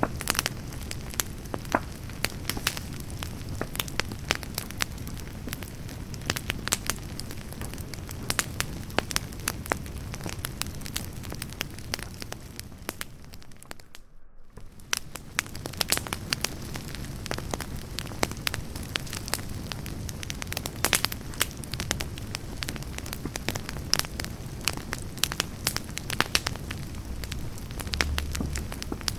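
Wood campfire burning, crackling with many sharp, irregular pops over a low rushing of flame. About halfway through, the sound drops out for a moment, then resumes.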